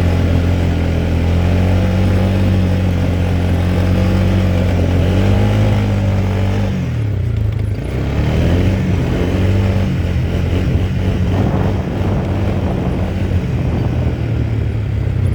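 Quad bike engine running under way. It holds a steady pitch at first, rises briefly about five seconds in, then drops off about seven seconds in and runs less evenly.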